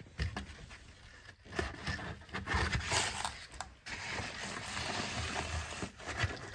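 Cardboard-framed pleated HVAC air filter scraping and rustling in several bouts as it is slid into the filter slot at the bottom of the air handler.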